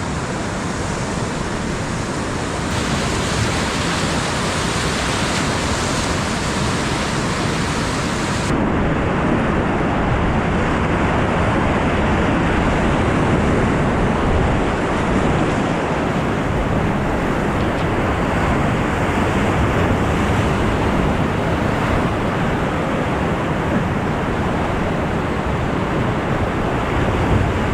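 Loud steady rush of whitewater in river rapids, with some wind buffeting on the action-camera microphone. The sound changes abruptly about three seconds in and again about eight seconds in, becoming duller after the second change.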